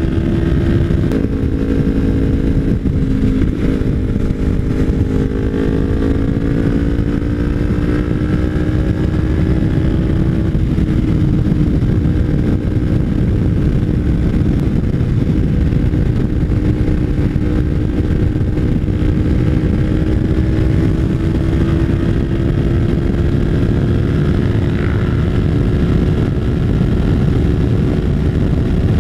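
Kawasaki Ninja 300 parallel-twin with an aftermarket MGP Growler slip-on exhaust running at a steady cruise under a constant low wind rush. The engine note drops about a second in, rises gradually over the next several seconds, then holds steady.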